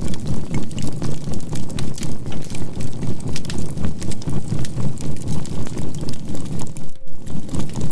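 Campfire charcoal crackling, layered with a steady 528 Hz tone and a low drone that pulses about three times a second as a binaural beat. The sound briefly drops out about seven seconds in.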